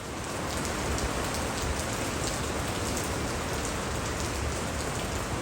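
Steady rain falling, with many small drops pattering on hard surfaces.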